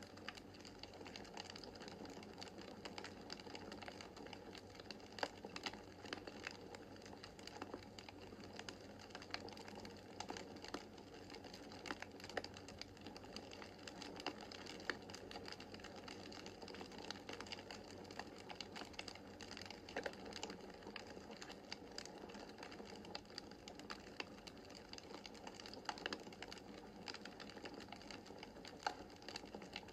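Wood fire in a fireplace crackling: a dense, irregular patter of small pops over a soft steady hiss, with a few sharper, louder snaps scattered through.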